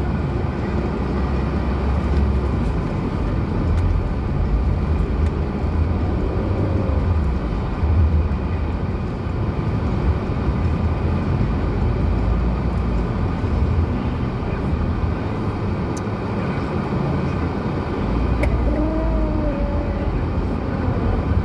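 Lada Granta car driving on a rough track, a steady low engine and road rumble.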